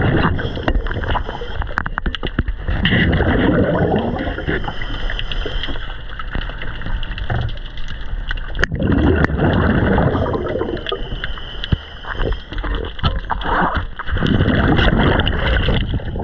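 Water churning and gurgling around a boat, swelling and easing every few seconds.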